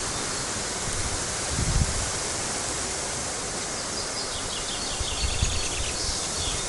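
Steady wind through leaves, with a few low gusts buffeting the microphone, and a faint rapid series of high bird chirps about four and a half seconds in.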